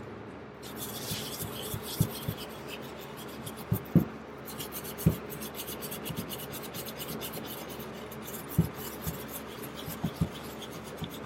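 Wire brush scrubbing hard carbon deposits off the valves of an ATV cylinder head, a fast scratchy back-and-forth rasping, with a few dull knocks of the part or brush against the bench.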